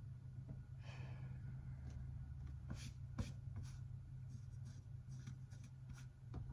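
Quiet room tone: a steady low hum, with a soft rustle about a second in and a few faint scattered clicks.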